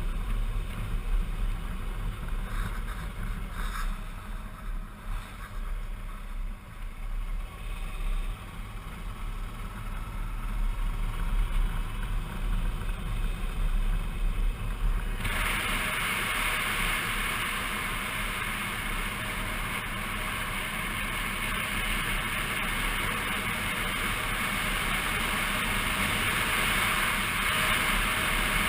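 Suzuki V-Strom 650's V-twin engine running on the road under wind rush. About halfway through the wind hiss suddenly gets much louder and stays up.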